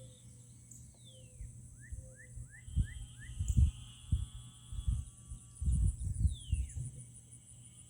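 Outdoor wetland chorus: a steady high insect buzz and a steady trill run throughout. Birds give a few falling whistled calls and a run of five short rising chirps. Irregular low rumbles through the middle are the loudest sound.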